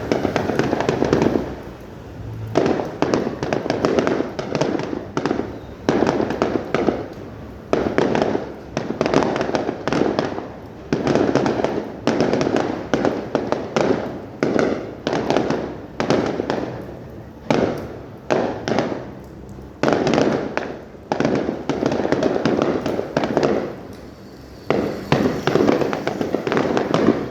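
Aerial fireworks shells bursting one after another, a boom every second or two, each trailing off, with quick crackling between the booms.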